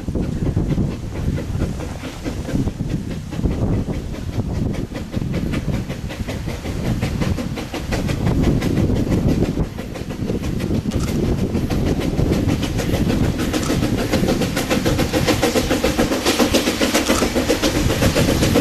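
Coal train hauled by a C2 narrow-gauge steam locomotive running by, its wheels clattering over the rail joints in a fast steady rhythm that grows louder from about eight seconds in and is loudest near the end.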